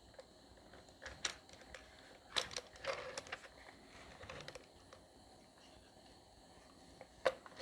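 Scattered light clicks and knocks from wooden box parts being handled and fitted during a glue-up. They come in a few small clusters, about a second, two and a half and three seconds in, with one more near the end, over quiet room tone.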